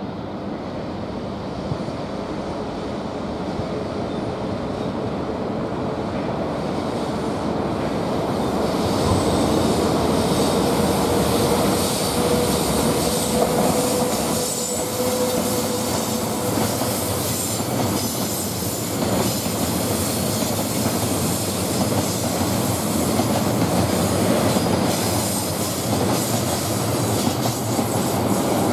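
EF210 electric freight locomotive and its train of tank wagons and container flat wagons approaching and rolling past close by, growing louder over the first several seconds. Steel wheels clatter over the rail joints, and a thin wheel squeal rings out for a few seconds around the middle as the train takes the curve.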